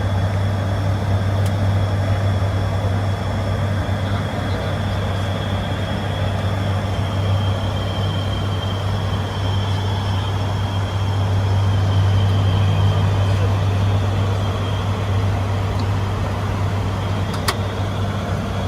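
ATR 72-600 turboprop airliner's engines and six-blade propellers running with a steady low drone and a faint high whine. A single sharp click sounds near the end.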